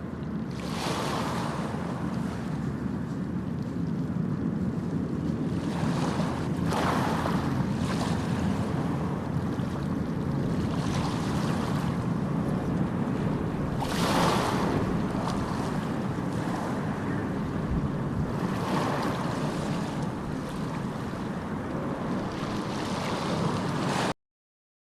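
A steady outdoor rushing noise that swells every few seconds, with no voices.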